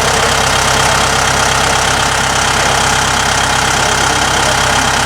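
An engine idling steadily, with an even mechanical hum and no revving.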